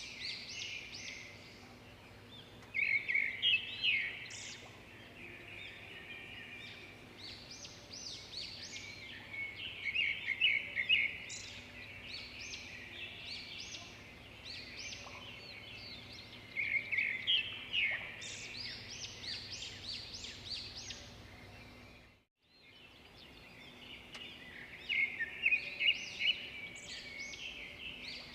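Songbirds singing in quick trilled bursts of chirps that come back every seven seconds or so, over a faint steady background of gurgling water. About 22 seconds in, all sound cuts out for a moment and then resumes.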